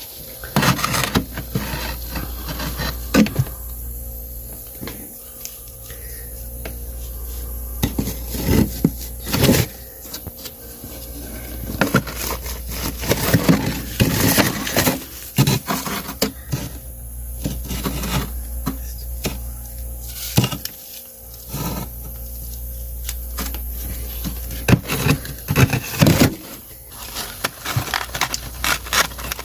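Slabs of freezer frost ice breaking and crunching, in irregular clusters of sharp cracks and crunches, with some scraping, over a steady low hum.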